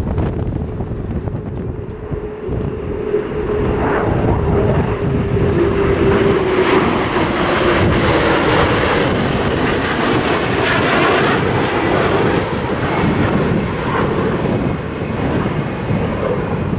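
Military jet aircraft flying past overhead: a loud engine roar that swells over the first few seconds and holds, with a whine that drops slightly in pitch as it passes.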